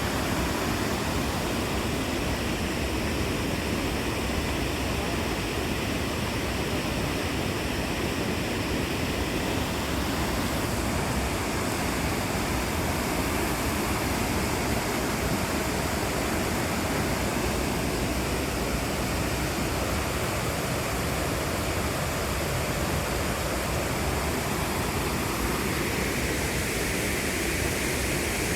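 Steady rush of water from a waterfall, an even unbroken noise with no distinct splashes standing out.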